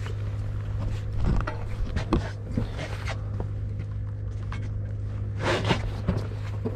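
A steady low machine hum, with scattered handling clicks and rustles and a brief louder burst of noise about five and a half seconds in.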